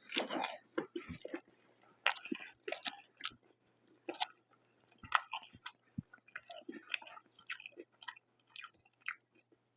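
A person chewing food close to the microphone: irregular wet smacks and clicks of the mouth.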